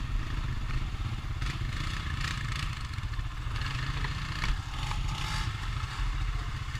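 ATV engine running steadily at low revs, with several short rattling noises in the middle.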